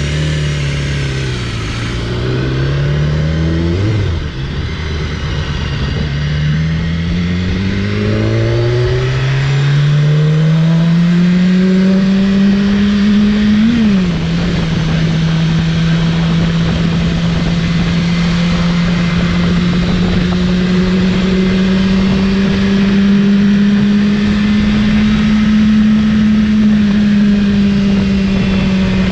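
BMW S1000RR sport bike's inline-four engine pulling up through the gears, shifting at about 4 s and again at about 14 s, then holding a nearly steady cruising pitch with small swells of throttle, over a constant rush of wind and road noise.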